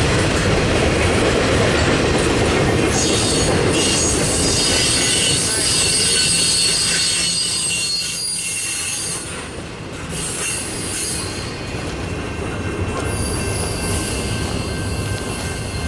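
Freight train's intermodal container cars rolling past, a loud rumble of wheels on rail with high-pitched wheel squeal. The sound eases as the last cars go by, about eight to ten seconds in, then the squeal picks up again near the end.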